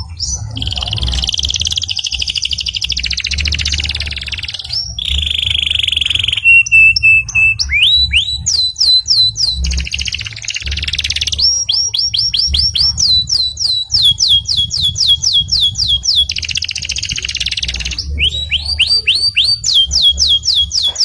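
Domestic canary singing a continuous song of fast trills and runs of quickly repeated, falling whistled notes, with a few held steady tones in between.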